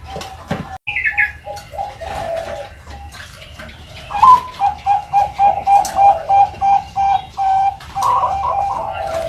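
Young Bangkok zebra doves (perkutut) cooing: a short rising note about four seconds in, then a quick run of short, even coos at about three a second.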